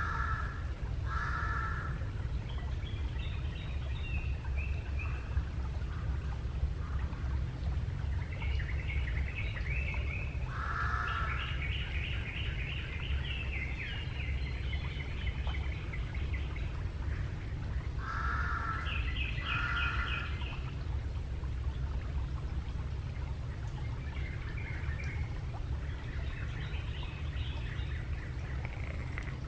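Black crows cawing: short single caws, about half a dozen scattered through, some in quick pairs. Smaller birds twitter in bursts between them, over a steady low rumble.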